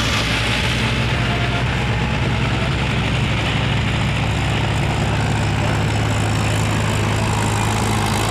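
Tractor diesel engine running steadily, a low even drone without rises or breaks.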